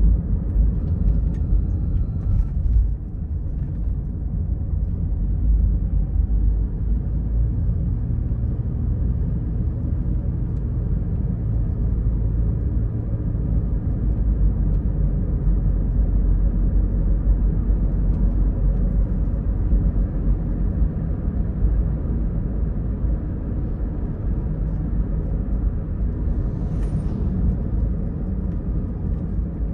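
Car driving on the road: a steady low rumble of tyres and engine.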